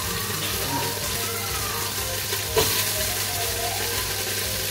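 Food frying in hot oil in a large stainless steel pot: a steady sizzle, with a single sharp clink about two and a half seconds in.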